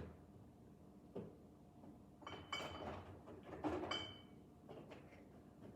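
Bottles and containers knocking and clinking as a hand rummages through a fridge, with two bursts of clatter that ring briefly like glass.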